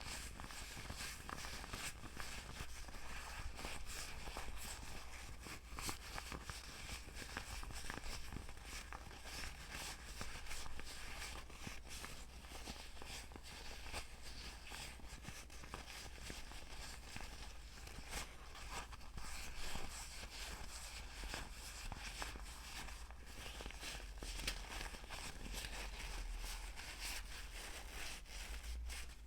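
Close-miked ASMR trigger sounds: a dense, continuous run of small soft taps and scratchy clicks over a steady hiss.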